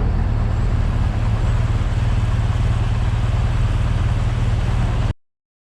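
BMW R1200GS boxer-twin motorcycle riding at road speed: a steady low engine rumble under heavy wind noise buffeting the microphone. It cuts off abruptly about five seconds in.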